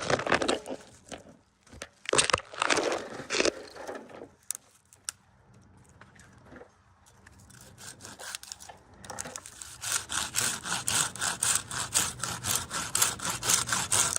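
Hand pruning saw cutting through dead spruce wood. A few scraping strokes come first, then a steady run of quick back-and-forth strokes, about three a second, in the second half.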